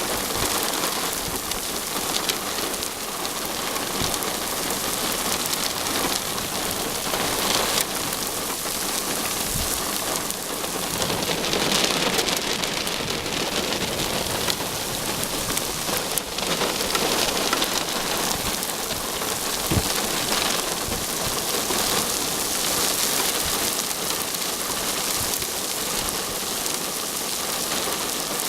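Heavy rain from a severe thunderstorm pouring down steadily, with scattered sharper drop impacts through it. It starts abruptly.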